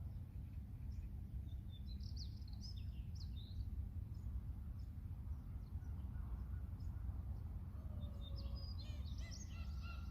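Seagulls calling over a steady low rumble: a few scattered calls about two to three seconds in, then a dense run of calls near the end.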